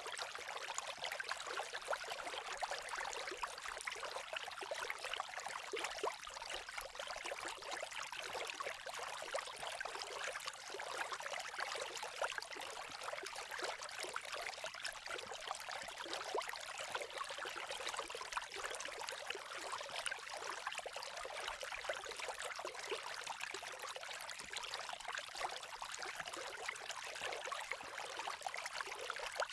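Creek water babbling and trickling steadily, a continuous even splashing with no pauses.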